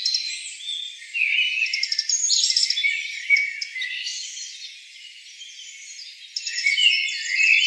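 Several small birds chirping and trilling at once in a dense, high-pitched chorus that thins out in the middle and swells again near the end.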